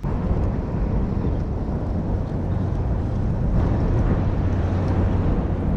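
Wind buffeting the microphone: a steady low rumble that starts abruptly and holds.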